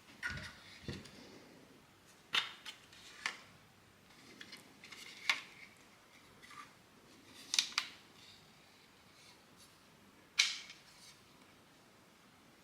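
Hard 3D-printed plastic parts being handled and fitted together, giving a series of sharp, irregular clicks and snaps with a few soft knocks.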